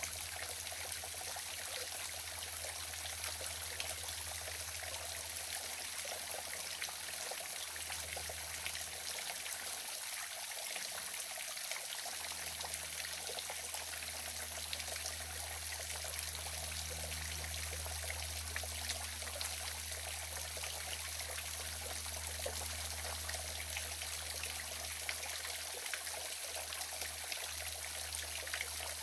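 Waterfall running steadily: an even rush of pouring, trickling water.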